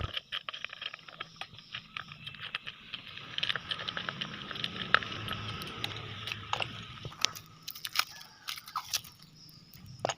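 Packaging being handled and unwrapped: a dense run of small crackles, crinkles and clicks.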